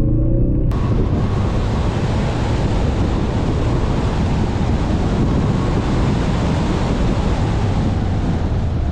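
Ford Focus RS at speed on a dirt rally course: the engine note rises briefly, then, about a second in, a loud steady rush of wind noise on the microphone suddenly takes over and covers most of the engine.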